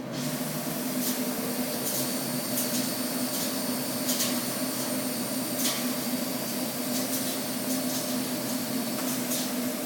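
Maino garment dyeing and washing machine running: a steady hum under a broad rushing noise that comes on abruptly, with short hisses every second or two.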